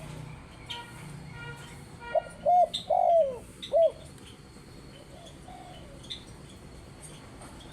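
Spotted dove cooing: a short run of loud arched coos from about two to four seconds in. Faint chirps of small birds come before and after.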